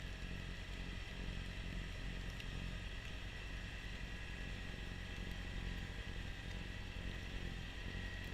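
Kubota B2650 compact tractor's three-cylinder diesel engine running steadily, working a front-mounted snowblower, with a thin steady high whine over the engine note.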